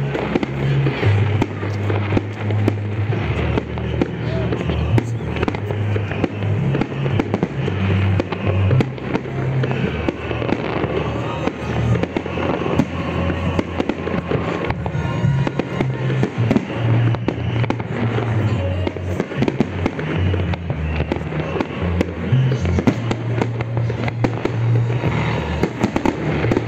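Aerial fireworks shells bursting and crackling in quick, irregular succession, over music with a low bass line.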